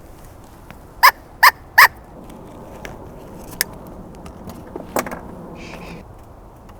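Three loud, short animal calls in quick succession, each a brief pitched note, followed by a few faint clicks and a small knock.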